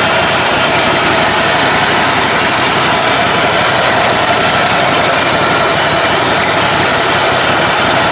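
Engine of a modified, lifted riding lawn mower running steadily at an even speed.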